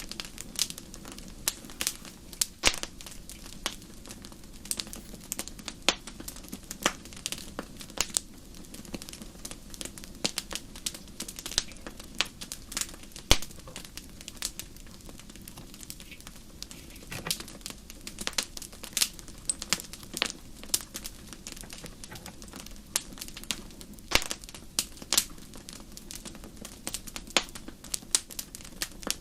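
Wood fire crackling: irregular sharp pops and snaps scattered over a steady low rumble, the loudest snap about halfway through.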